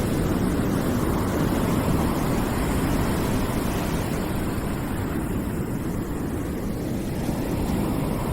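Continuous rushing white-noise background sound, even and unbroken, heaviest in the low range.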